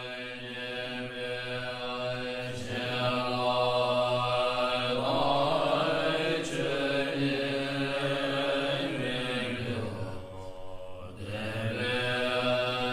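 Mantra chanting: long held notes over a low steady drone, swelling over the first few seconds, with a brief drop about ten seconds in before the chant picks up again.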